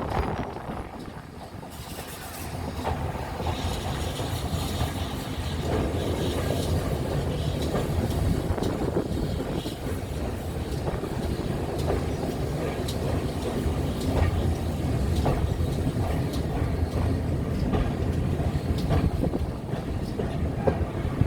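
A railway train running along the track: a steady low rumble that builds up about two seconds in, with scattered short clicks of the wheels over the rails.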